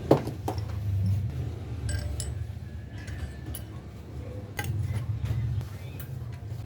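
Metal tools and parts clinking and tapping: a sharp knock just after the start, then a few short ringing metallic clinks, over a low steady hum.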